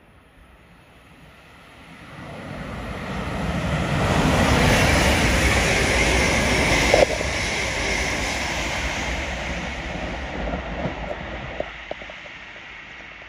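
East Midlands Railway passenger train passing at speed: the rumble and rail noise build over a couple of seconds, peak, then fade away as it recedes, with a short sharp click about halfway through.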